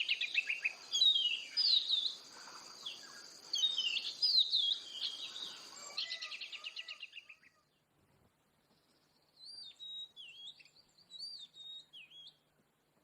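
Oriental magpie-robin singing in full voice: rapid trills and varied whistled phrases, breaking off about seven seconds in, then a quieter run of whistled notes near the end.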